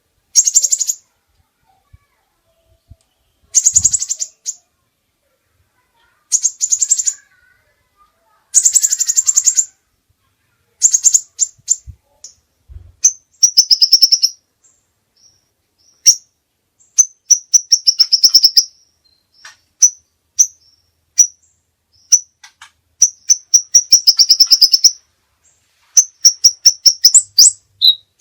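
Songbird singing high-pitched, fast trills in bursts of about half a second to a second, separated by pauses of a second or two. From about halfway in, the phrases turn into quicker runs of whistled notes that come more often.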